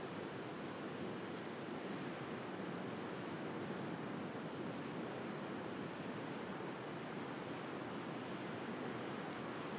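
Steady wash of sea surf, with a few faint crackles from a wood bonfire.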